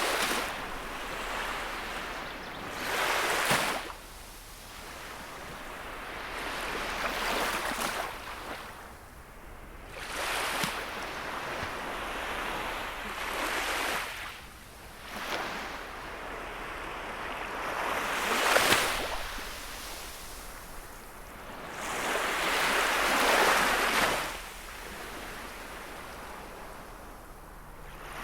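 Gentle sea waves breaking on the shore, one swell of surf every three to five seconds, each rising and then washing back.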